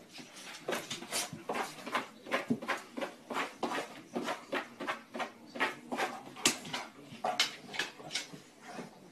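A golden retriever's claws tapping and scraping on a tablet's glass screen as it paws at it: an irregular run of sharp clicks, about two or three a second.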